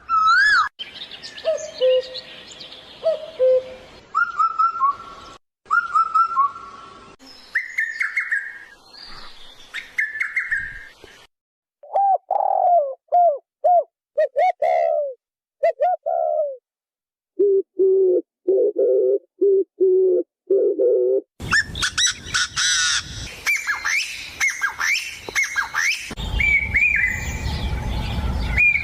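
Birds calling in a string of short, abruptly cut segments: clear whistled songs with gliding notes, then runs of short, evenly repeated low coos in the middle, then a dense chorus of chirps and whistles over a low rumble near the end.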